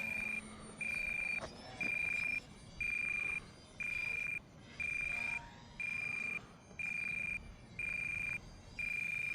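Electronic alarm beeping steadily on one high tone, about one half-second beep every second, stopping near the end.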